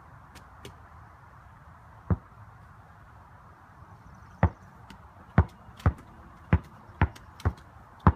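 A basketball bouncing on hard ground with sharp thumps: one bounce about two seconds in, then a run of dribbles at about two a second from the middle on.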